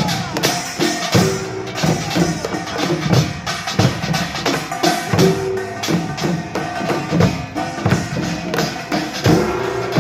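Korean pungmul percussion band playing: small gongs clanging over drums in a fast, dense, unbroken rhythm.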